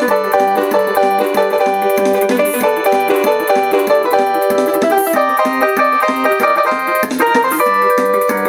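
Yamaha PSR-47 portable electronic keyboard playing a quick succession of notes, several sounding together, sped up to one and a half times speed.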